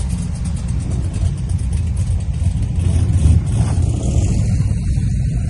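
Car engine running with a deep, steady low rumble.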